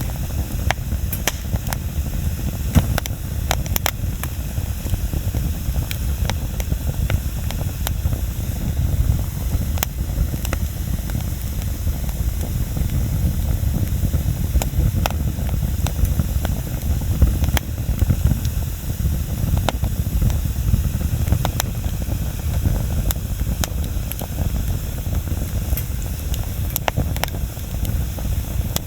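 Bonfire burning with a steady low rush and frequent sharp crackles and pops from the burning wood.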